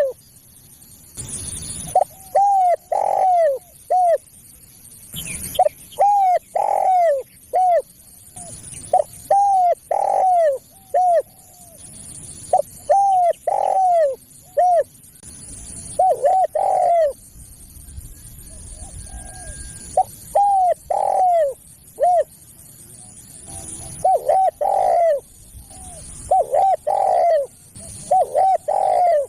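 Spotted dove (tekukur) cooing: a phrase of three or four arched coos repeated every three to four seconds. This is the territorial song that calling tracks use to lure wild spotted doves.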